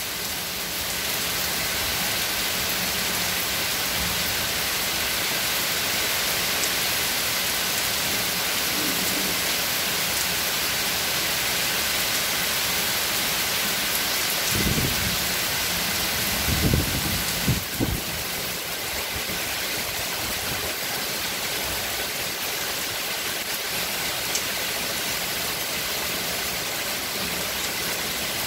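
Heavy rain pouring steadily onto trees, leaves and standing water, a dense even hiss. A few brief low thumps come about halfway through.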